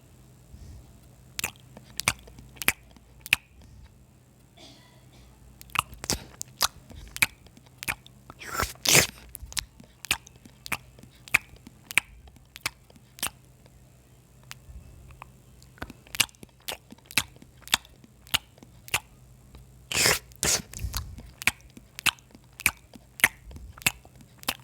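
Close-miked eating: a string of short crunchy bites and wet mouth clicks from chewing rajma and rice with raw onion and green chillies, with two longer, louder bursts about 9 seconds and 20 seconds in. A faint low hum runs underneath.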